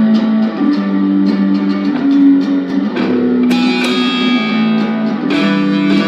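Guitar strumming sustained chords as a song's instrumental intro, with no singing yet. About three and a half seconds in, the sound fills out with brighter, higher parts.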